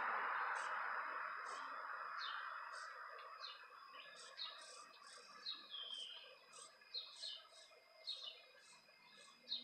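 Small birds chirping: short, sharp chirps that slide downward, repeating about once or twice a second. A rushing noise fades away over the first three seconds.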